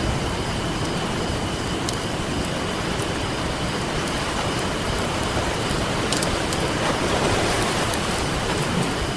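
Ocean surf washing steadily, mixed with a crackling campfire that gives a few sharp pops.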